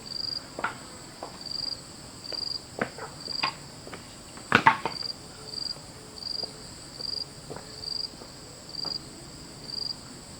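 Insects, cricket-like, chirping in an even pulse a little faster than once a second over a steady high drone. Scattered sharp knocks break in, the loudest about four and a half seconds in.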